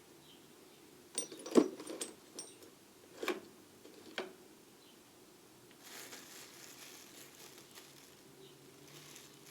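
Small metal lathe tools clinking and knocking as they are handled in a toolbox drawer: a quick cluster of clinks with a light metallic ring, two more single knocks, then faint rummaging and rustling.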